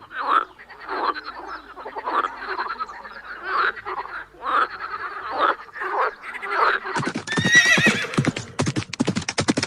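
Frogs croaking, short pulsed calls about once a second; about seven seconds in it changes abruptly to a horse whinnying over the clip-clop of hooves.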